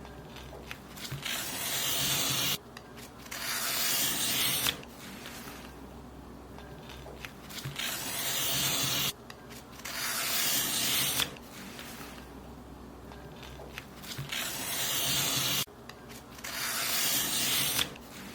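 Paper being cut in long, drawn-out strokes, in pairs about every six seconds. Each stroke rasps louder as it goes and stops abruptly.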